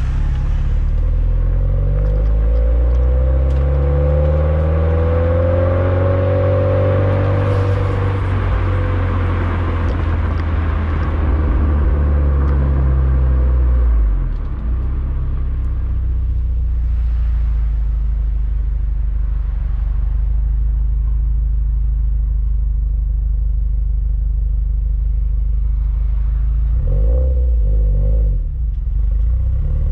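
Subaru WRX STI's turbocharged flat-four running through an HKS Super Turbo Muffler while driving. The exhaust note climbs slowly for several seconds, then eases off. It drops briefly about halfway through, then settles into a steady low drone, with a short change in pitch near the end.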